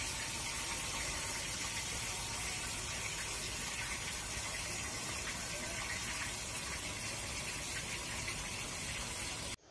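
Chicken leg pieces sizzling steadily as they fry in oil under a glass lid; the sizzle cuts off suddenly near the end.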